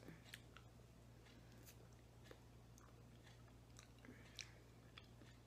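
Faint close-up mouth sounds of a person chewing a spoonful of soft dairy-free coconut frozen dessert: scattered small wet clicks and smacks, a few every second.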